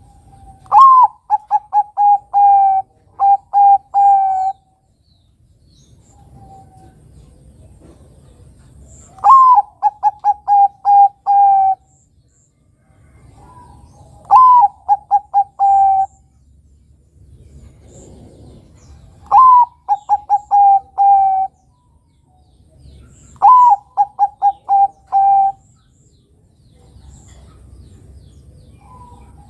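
Bangkok-strain zebra dove (perkutut) singing its cooing song five times, about every five seconds. Each phrase opens with a higher note that slides down, then runs into a quick string of short, even coos.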